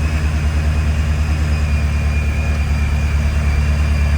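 Ford Shelby GT350's supercharged 5.2-litre flat-plane-crank V8 idling steadily, a low, even pulsing rumble.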